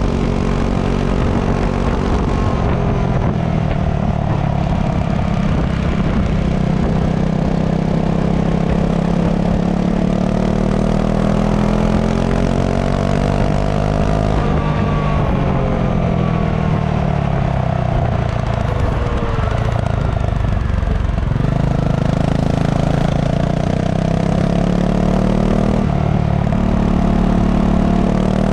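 Honda CRF250 Rally's single-cylinder engine running through its stock exhaust while riding, the pitch rising and falling again and again as the bike speeds up and slows down.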